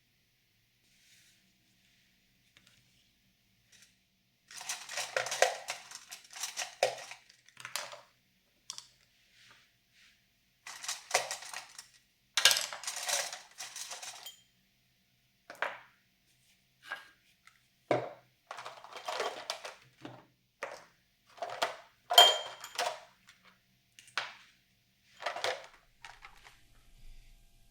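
Small hard objects clinking and clattering against each other and a hard surface in irregular bursts, a few strikes leaving a brief ringing tone.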